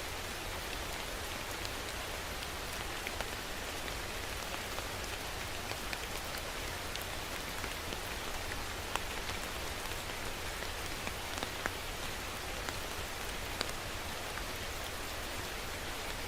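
Steady rain falling, with many individual drops striking a surface as scattered sharp ticks over an even hiss.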